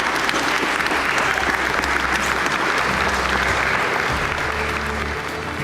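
Congregation applauding steadily, with music playing underneath.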